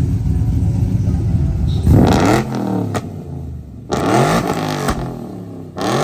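A car engine running with a deep steady drone, then revved in short sharp blips about two seconds apart, the pitch falling back after each. A few sharp pops come between the blips.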